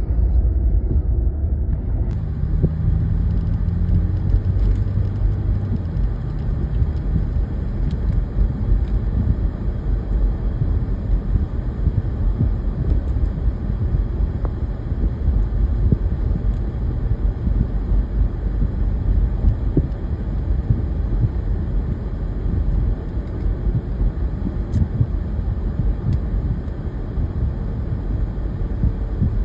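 Motor vehicle engine running with a steady low rumble, with a brief humming tone a few seconds in.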